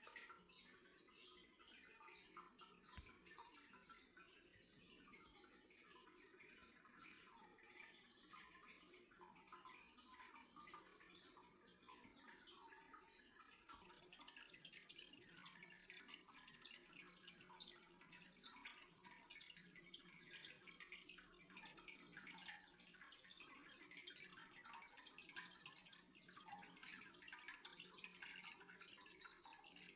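Faint dripping water: many small drops ticking, a little busier in the second half.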